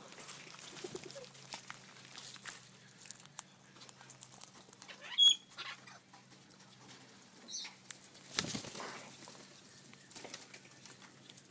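Australian king parrots scuffling and fluttering at close range, with one short high call about five seconds in and a louder rustle about eight seconds in.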